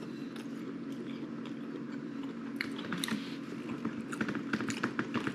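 A man chewing soft pizza dough bites close to the microphone: wet mouth clicks and smacks, coming thicker in the second half, over a steady low hum.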